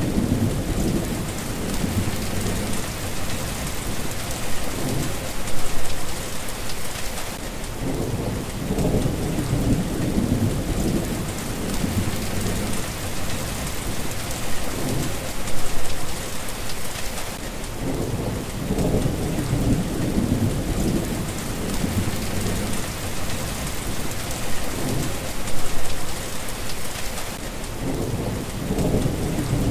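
Steady rain falling, with low rumbles of thunder swelling and fading every few seconds and the loudest rolls about every ten seconds.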